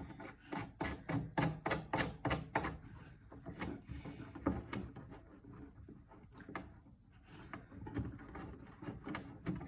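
A screw being driven into wood by hand with a screwdriver: a run of irregular clicks and rubbing scrapes as it turns.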